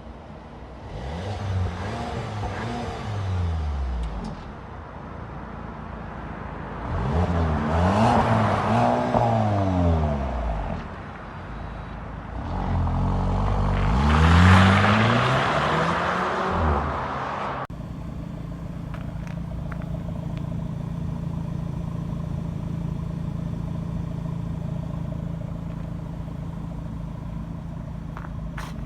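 Skoda Kodiaq engine heard at the exhaust, revved three times, each rev climbing and dropping back, with the third the loudest. It then idles steadily for the last third.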